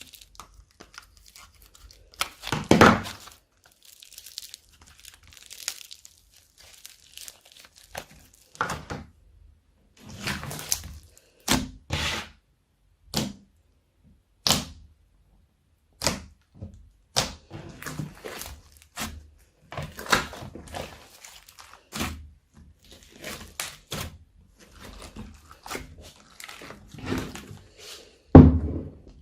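Slime being mixed and squeezed by hand: irregular short pops and clicks, with louder ones about three seconds in and near the end.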